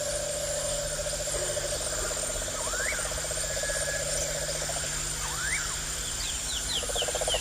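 Frogs and insects calling: a fast pulsing trill that swells near the end, a steady high buzzing, and a short rising call repeated about every two and a half seconds. A quick run of short high chirps comes in near the end.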